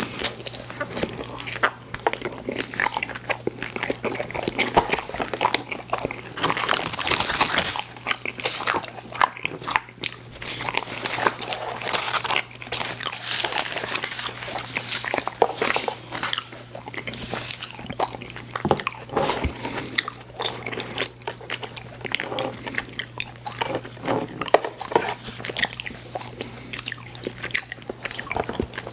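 Close-miked eating of candy: a steady run of bites and chewing, with dense irregular clicks and smacks from the mouth.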